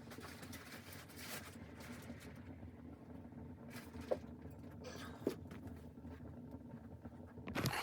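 Faint rustling and handling noise with two sharp light knocks about four and five seconds in, over a steady low hum, and a louder rush of noise near the end.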